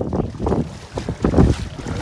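Wind buffeting the microphone in uneven, low gusts.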